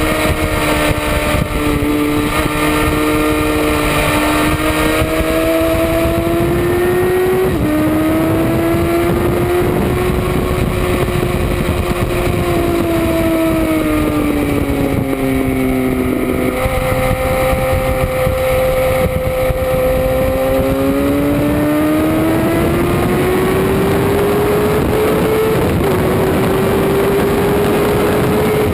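Motorcycle engine on track, heard close from the rear of the bike, its pitch slowly climbing under throttle and sagging off again, with a few sudden steps in pitch at gear changes, over steady wind and road noise.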